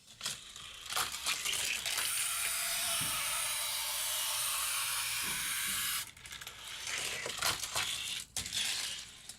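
A die-cast Hot Wheels car running on plastic track: clicks and rattles as it sets off, then a steady high rolling hiss for about four seconds that cuts off suddenly, then more clattering over the track until it stops near the end.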